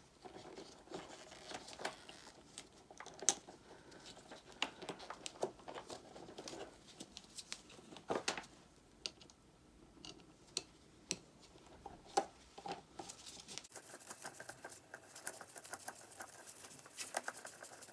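Faint, irregular clicks and light metallic taps from small hand tools and terminal bolts as the cables are fastened onto a motorcycle battery's terminals.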